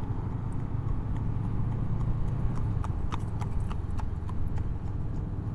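Horse's hooves clip-clopping on the road in sharp, uneven clicks, over the steady low hum of a Honda CB500X's parallel-twin engine.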